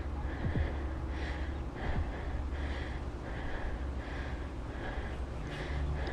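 A woman breathing hard in short, rhythmic breaths, about one every two-thirds of a second, from the exertion of doing flutter kicks.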